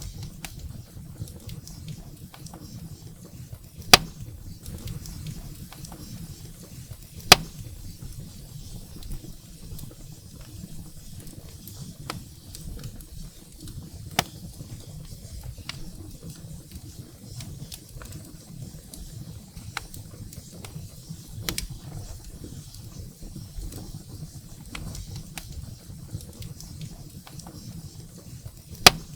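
Wood fire burning in a fireplace: a steady low rumble of flame with sporadic sharp crackles and pops of burning firewood, the loudest pops about four seconds in, about seven seconds in, and near the end.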